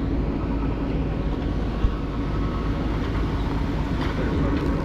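Ford 391 V8 gasoline engine of a 1970s Ford L-800 fire truck running steadily with an even hum, driving its PTO water pump.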